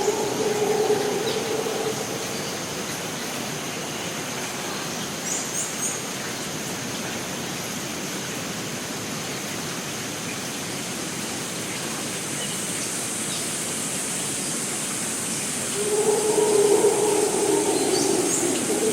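Rainforest ambience: a steady rushing noise of water with a thin high-pitched hum over it and a few short high chirps. A louder low-pitched sound comes up near the start and again for about three seconds near the end.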